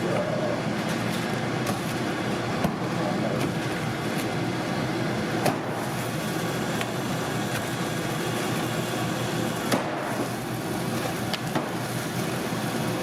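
Busy kitchen background: a steady rushing noise with scattered sharp clicks and knocks.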